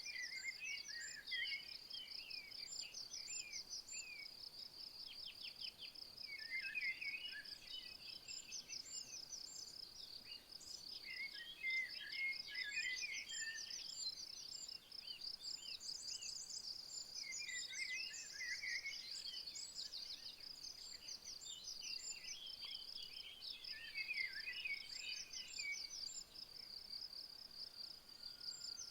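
A high, steady insect trill made of fast, even pulses. Over it a songbird sings short twittering phrases every few seconds.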